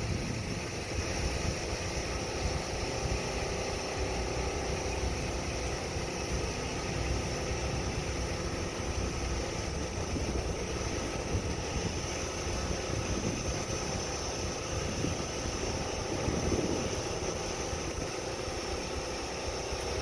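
A steady engine-like drone over a fluctuating low rumble.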